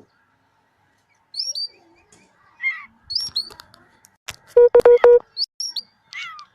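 Oriental magpie-robin (kacer) singing: short, sharp whistled notes with quick upward and downward bends, given in scattered phrases. About halfway through comes a loud, harsh, buzzing burst lasting under a second.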